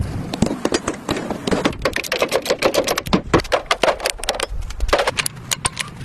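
Rapid, irregular clicking and tapping of workshop work, several sharp strokes a second.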